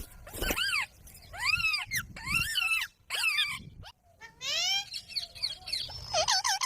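Parrot calling: a run of harsh squawks, each rising and falling in pitch, several in a row, with a quick series of falling notes about four and a half seconds in.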